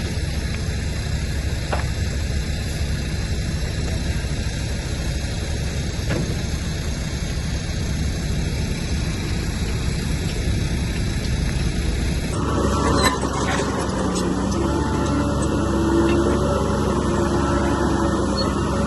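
Heavy diesel engine of a bulldozer running steadily. About twelve seconds in the sound changes abruptly, and several steady whining tones come in over the engine.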